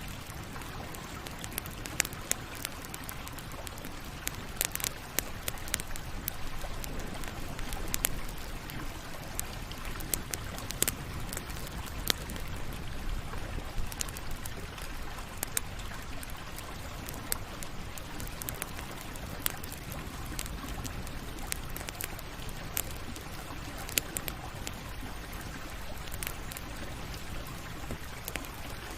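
Campfire crackling, with frequent irregular sharp pops and snaps over a steady soft hiss.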